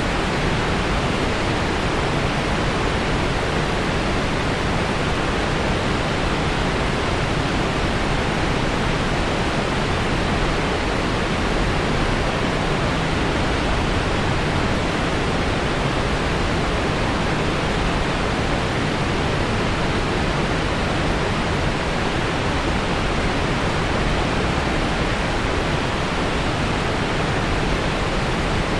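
Waterfall: water falling in a steady, unbroken rush, unchanging throughout.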